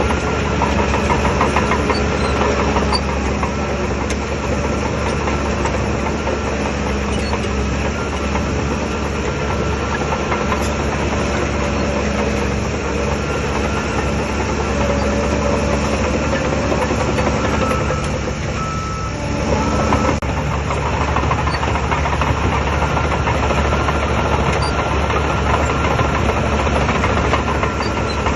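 Shantui DH17 bulldozer's diesel engine running steadily under work, easing off briefly about two-thirds of the way through and then picking up again.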